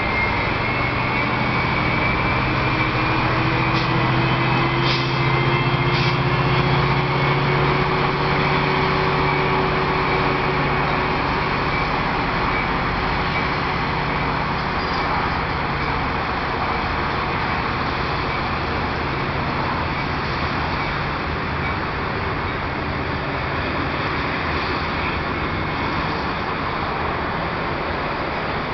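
Metra diesel locomotive pulling a train of bilevel commuter cars away under power, its engine running loud over the steady rumble of wheels on rail. The engine note rises slightly in the first few seconds as it works harder.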